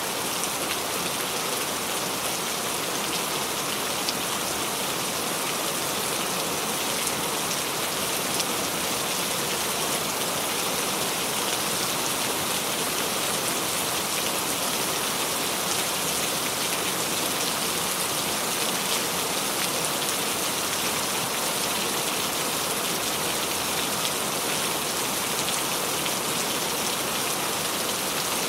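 Steady rain falling on a surface, a continuous even hiss with faint scattered drop patter.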